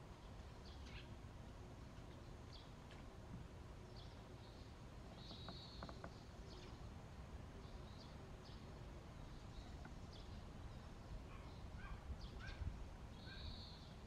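Faint, scattered high-pitched bird chirps, with two longer buzzy calls about five seconds in and near the end, over a low steady outdoor rumble.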